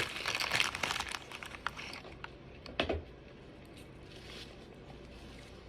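Crisp crackling crunches from biting into a fried crab rangoon's wonton shell close to the microphone, dense for about two seconds and then dying away.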